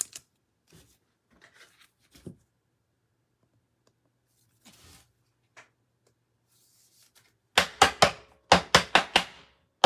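Trading cards and packs being handled: faint rustles and light taps, then near the end a quick run of about seven loud scratchy strokes, about four a second.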